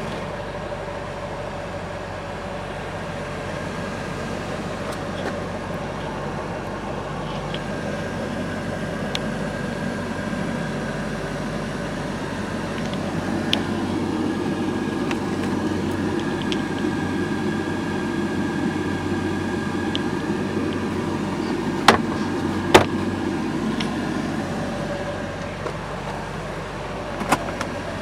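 1973 Chevrolet Corvette V8 engine running steadily. It grows louder and fuller for about ten seconds in the middle, then eases back. A few sharp clicks come near the end.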